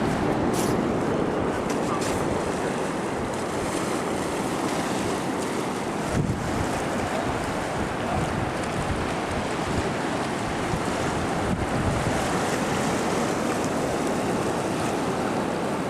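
Wind blowing across the microphone: a steady rushing noise with gusty low rumbling throughout.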